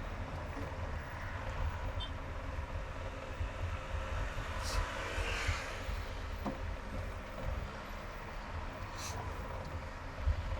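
Road and engine noise of a car driving on a highway: a steady low rumble with tyre hiss, a brief swell about halfway through, and two short clicks.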